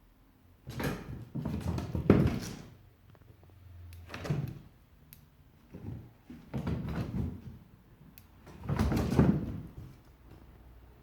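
A pet chasing a laser dot, making four bursts of scrambling and thumping on the floor with quiet gaps between them.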